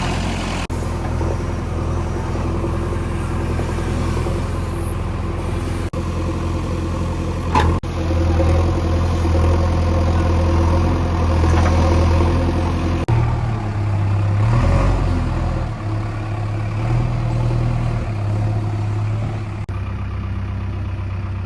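Heavy diesel machinery engine running steadily with a strong low hum. The engine note shifts abruptly a few times, near eight seconds and again near thirteen seconds.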